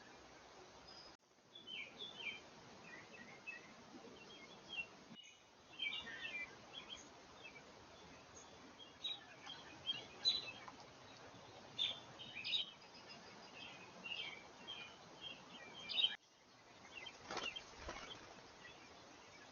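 Small birds chirping repeatedly in short, high notes, with a brief rustling burst near the end.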